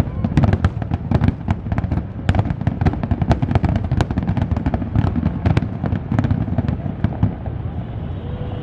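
Fireworks display: a dense, rapid barrage of sharp cracks and bangs, several a second, over a continuous low rumble of bursting shells.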